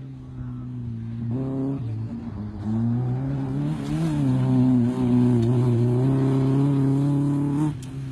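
Sports car engine running and accelerating: its pitch climbs over a couple of seconds, holds at higher revs, then drops away suddenly near the end.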